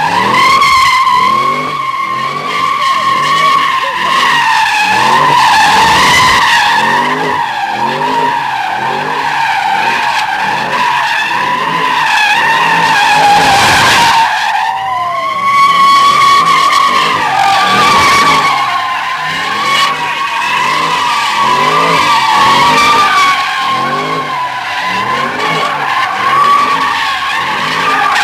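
Car tyres squealing without a break in a drift or donut, while the engine revs in quick, even pulses about twice a second underneath. About halfway through the squeal breaks off briefly, then picks up again.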